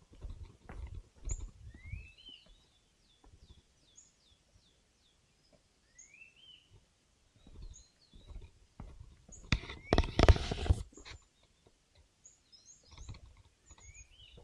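Forest birds calling: short high notes, a run of quick chirps and two rising whistled calls. Low thuds of footsteps come in the first couple of seconds, and about ten seconds in there is a loud burst of noise lasting about a second.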